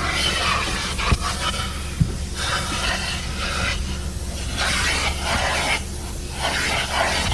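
Car wash vacuum hose running: a suction hiss that swells and fades as the nozzle is worked over the car's interior, over a steady low hum, with a couple of sharp knocks in the first two seconds.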